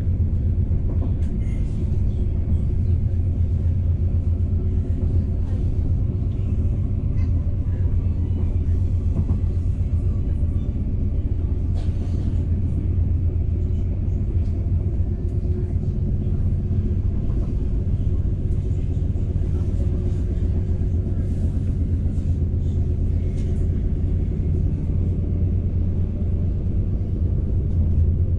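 Passenger train running at speed, heard from inside the carriage: a steady low rumble of wheels on the rails, with a few faint ticks.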